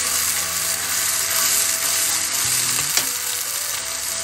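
Blended vegetable paste sizzling steadily in hot oil in a frying pan, with a metal spatula scraping and stirring it and a single tap about three seconds in.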